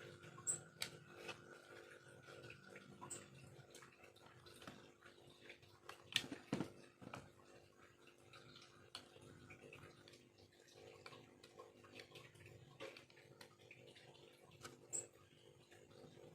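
Faint, scattered clicks and scrapes of a small knife carving bamboo, with a few sharper taps about six seconds in.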